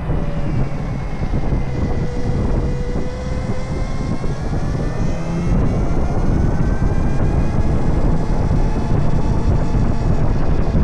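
Electric mini bike's QS90R motor whining as it is ridden, the whine dipping slightly and then rising in pitch over a few seconds as speed changes. Heavy wind rumble on the microphone runs underneath.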